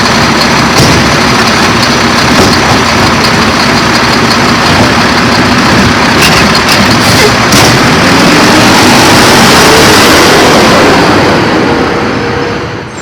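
Garbage truck running close by, its engine revving with a rising pitch from about seven seconds in, with a few knocks along the way.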